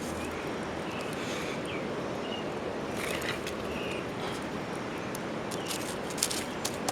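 Steady outdoor hiss with short, faint bird chirps, and a few sharp clicks and knocks about halfway through and again near the end as a stone and sticks are shifted at a campfire.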